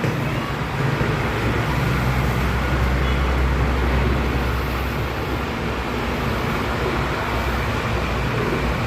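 Steady low rumble with an even hiss of outdoor background noise, like passing traffic, with no sudden events.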